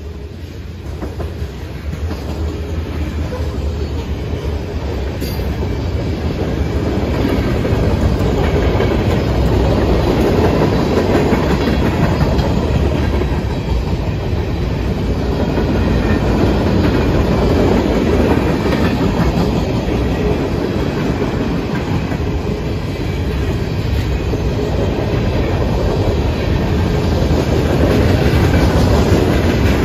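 Freight train of covered hopper cars rolling through a grade crossing, steel wheels running on the rails. The noise builds over the first several seconds and then holds steady and loud.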